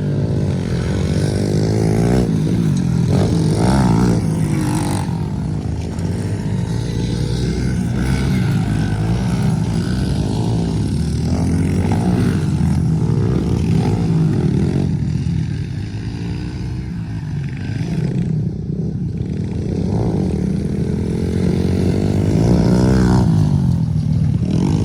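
Pit bike engine revving, its pitch rising and falling over and over, easing off briefly about two-thirds of the way through.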